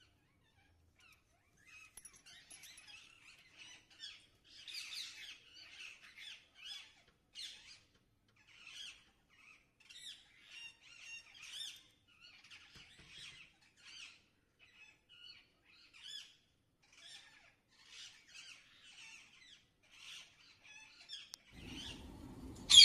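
Birds calling in a continuous run of short, high chirps, several a second, overlapping one another. Near the end a rustling noise starts and there is one sharp, loud click.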